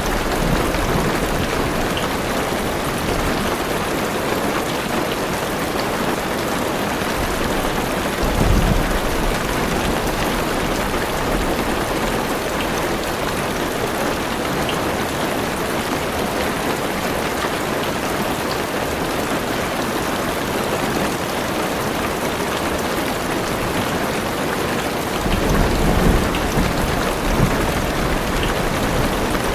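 Heavy rain falling steadily on a car roof and windows, heard from inside the car. Low thunder rumbles swell briefly about a third of the way in and again near the end.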